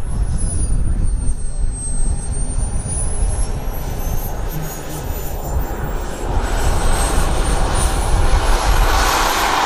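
A model jet's turbine engine, flying, with a thin high whine that slowly rises and falls in pitch. Its rushing noise grows louder near the end as the jet comes closer. Gusty wind rumbles on the microphone.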